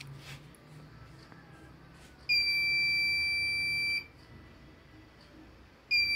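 Electronic beeper sounding a steady high-pitched tone: one long beep of under two seconds, then a short beep near the end, over faint background noise with a couple of light clicks at the start.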